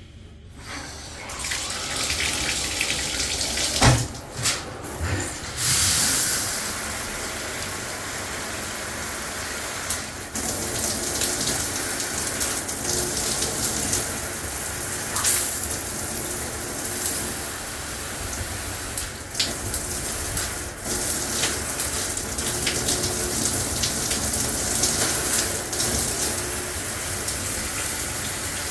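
Shower head spraying water, turned on about a second in and running steadily, with several short knocks as its spray settings are switched.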